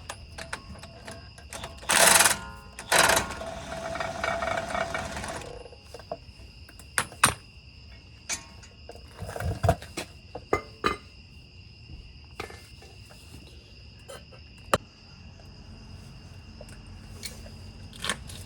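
Metal clanks and knocks of hand tools and brake parts being handled on a Jeep's front brake assembly: two loud rattling bursts about two and three seconds in, then scattered sharp knocks. Under it runs a steady high chirring of insects.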